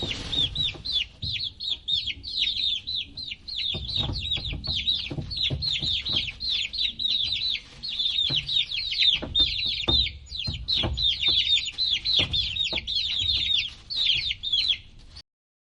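Many chicks peeping together in quick, overlapping high calls, with low knocks and rumble underneath. The sound cuts off suddenly about 15 seconds in.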